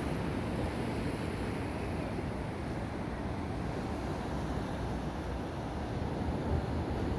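Wind rumbling on the microphone, with the sea's surf washing behind it in a steady roar.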